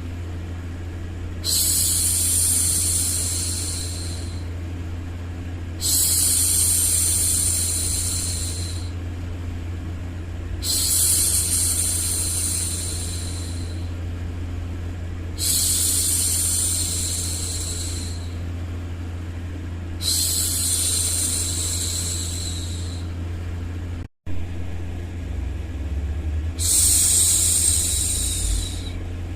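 A woman's voice hushing a baby, 'shhh', in six long hushes of two to three seconds each, one every four to five seconds, over a steady low hum of white noise. The sound cuts out for a moment about three quarters of the way through.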